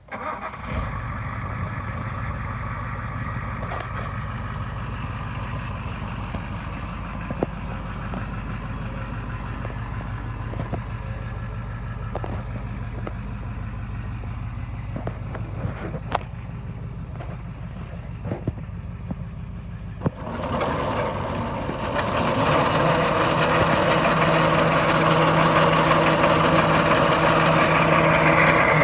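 A 1988 International 1654 truck's engine starts, idles steadily with a few light clicks, then about twenty seconds in is revved up and held at a higher, louder, steady speed.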